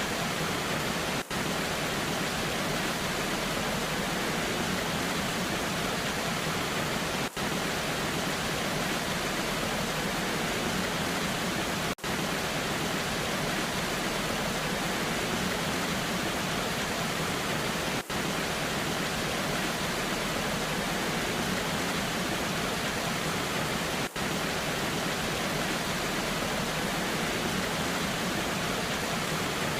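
Steady, even rushing water of a waterfall, broken by a brief dropout about every six seconds.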